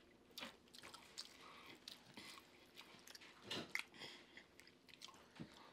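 Faint chewing of crispy fried catfish, with scattered small crunches and a slightly louder patch about three and a half seconds in.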